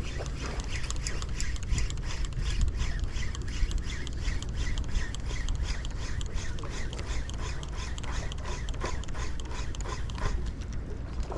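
Strong wind buffeting the microphone, with a rapid run of short squeaky chirps, about three a second, over it.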